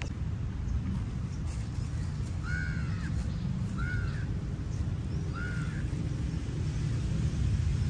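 A bird calling three times, short arched calls about a second and a half apart, over a steady low rumble of wind on the microphone.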